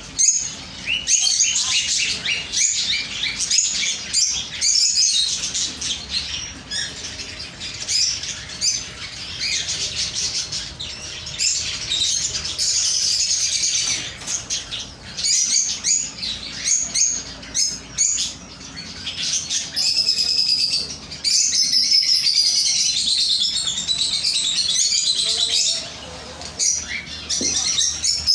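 Many small birds chirping and twittering at once, a dense, continuous overlapping chatter, with scattered sharp clicks.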